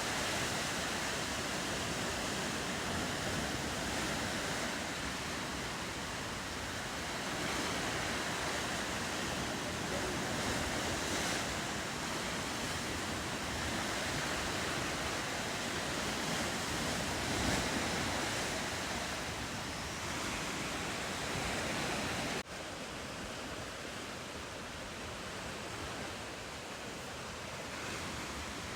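Steady ocean surf washing, with wind buffeting the microphone. About two-thirds of the way through it cuts abruptly to a slightly quieter, duller wash.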